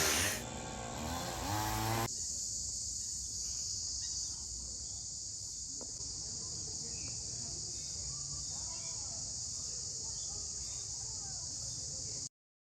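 Steady, high-pitched insect chorus drone. For the first two seconds a louder sound with a rising pitch sits over it, and the whole sound cuts off suddenly near the end.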